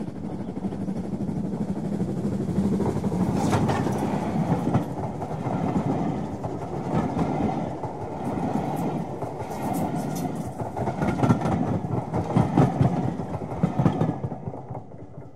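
A train running past, its wheels clicking over the rail joints every second or so. It fades away near the end.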